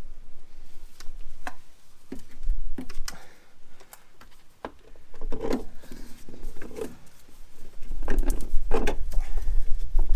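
Scattered clicks, knocks and dull clunks of a new suspension strut being manoeuvred into place, with a quieter stretch in the middle.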